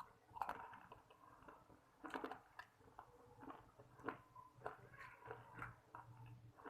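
A person chewing and biting crispy fried chicken, with faint, irregular sharp crunching and mouth noises; the strongest bites come about half a second and two seconds in.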